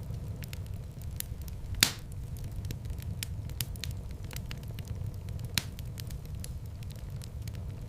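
Fire burning in a fireplace: a steady low rumble of flame with frequent small crackles, and two louder pops, one about two seconds in and one near six seconds.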